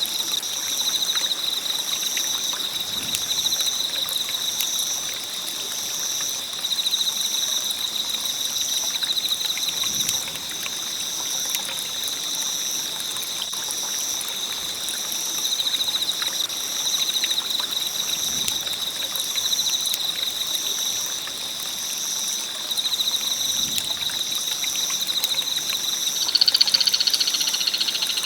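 Wood bonfire crackling with scattered small pops, over a steady chorus of insects trilling in a high, pulsing band. A louder, high chirping joins near the end.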